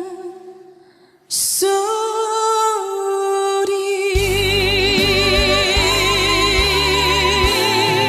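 A female trot singer holds a long note with heavy vibrato that fades out, then after a brief near-silent gap a sharp accent brings her back in on long, wavering sustained notes. The band's bass and accompaniment enter about four seconds in.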